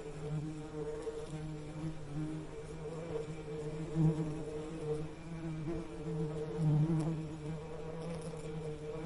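Bees buzzing steadily: a low, continuous drone that wavers in loudness, swelling briefly about four and seven seconds in as a bee passes closer.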